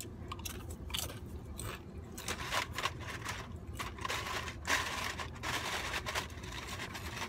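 A person chewing crunchy food close to the microphone, with irregular crunches and bites.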